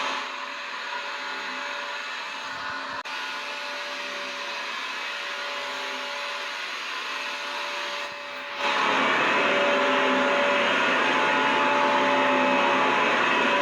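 Vacuum cleaner motor running steadily, a whine with a few held tones over a rush of air. Just after the start it drops in loudness and sounds thinner, then comes back fuller about eight and a half seconds in.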